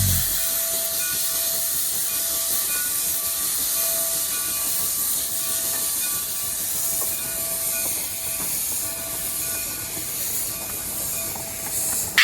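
Steam locomotive letting off steam: a steady hiss, with faint high tones coming and going.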